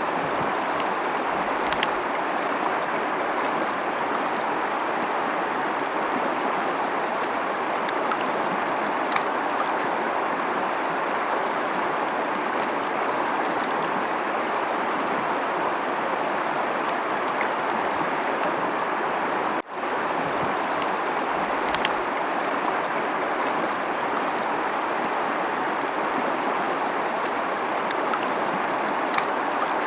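Fast-flowing river rushing steadily over rocks, a constant even roar of water. It drops out for an instant about twenty seconds in.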